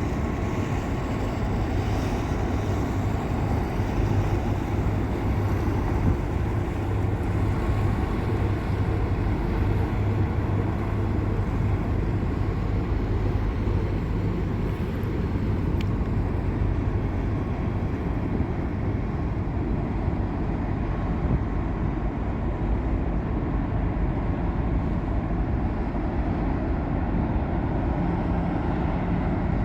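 Steady low drone of ship and tugboat engines passing on the water, with a deep hum that fades about halfway through and a higher hum coming in near the end.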